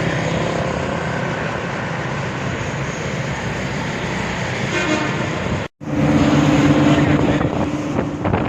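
A vehicle engine running steadily under wind and road noise. The sound cuts out abruptly about two-thirds of the way in, then a steadier engine hum with a stronger low tone carries on.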